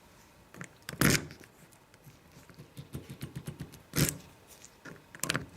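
A key scraping and clicking in the lock of a locking petrol cap as it is tried and turned. There are sharp clicks about a second in, again about four seconds in and near the end, with small rattling ticks between.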